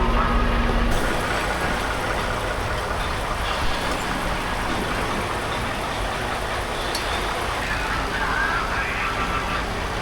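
Steady engine and road noise inside a semi truck's cab while driving. A low steady hum drops away about a second in, leaving an even rushing noise.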